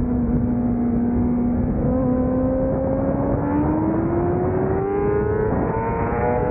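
600-class race motorcycle engine at full throttle, holding pitch for about a second and a half, then winding up steadily through a gear, with heavy wind rush underneath.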